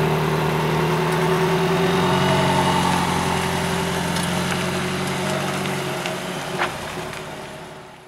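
Alfa Romeo 4C Spider's turbocharged four-cylinder engine running at low revs as the car moves slowly away, its steady note growing fainter before fading out at the end.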